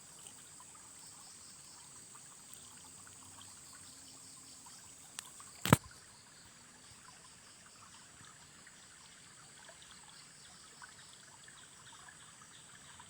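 Faint trickle of flowing river water with a steady high-pitched tone over it. A sharp click sounds a little before six seconds in, just after a smaller one.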